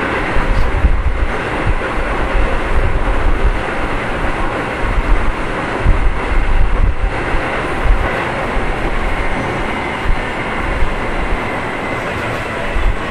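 Keio 7000 series field-chopper electric train running, heard inside the passenger car: a steady rumble of wheels on the rails with the clickety-clack of rail joints.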